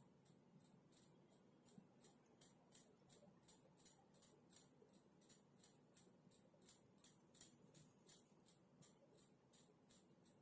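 Faint computer keyboard typing: steady light key clicks, about three to four a second.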